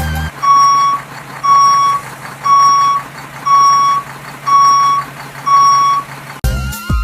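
A truck's reversing alarm beeps six times, about once a second, each beep a steady tone lasting about half a second, over a steady low engine hum.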